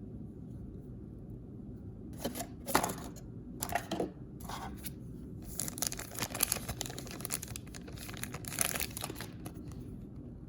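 Blind-bag packaging being torn open and crinkled by hand: a few short rips after about two seconds, then a longer run of tearing and crinkling from about halfway that stops shortly before the end.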